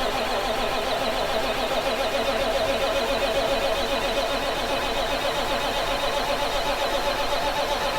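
Starter motor cranking the cold Big Cam 400 Cummins diesel of a 1976 Kenworth W900A in a steady, even rhythm without the engine firing. The cranking stops at the very end.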